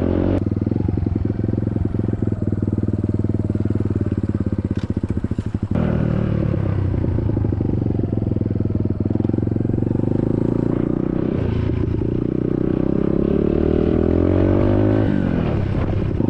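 SSR 150cc dirt bike's single-cylinder four-stroke engine under way: the throttle closes about a second in and the engine coasts with a loose, uneven firing for several seconds. About six seconds in it pulls hard again, its pitch sweeping down and back up near the end.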